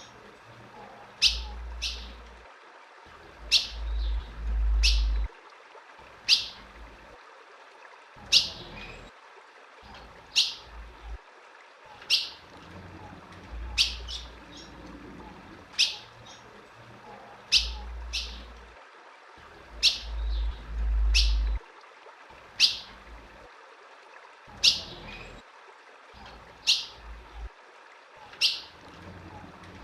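Female ultramarine grosbeak (azulão) giving short, sharp, high call notes that fall in pitch, about one every two seconds, some doubled. A low rumble comes and goes underneath.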